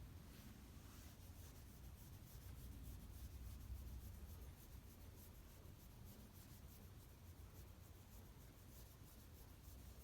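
Faint rubbing and rustling of a hand stroking a Shiba Inu's fur, repeated strokes over a low room hum, close to silence.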